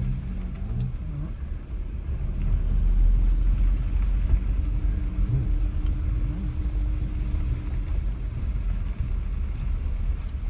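Car driving slowly with a steady low engine and road rumble, a little louder for a couple of seconds a few seconds in.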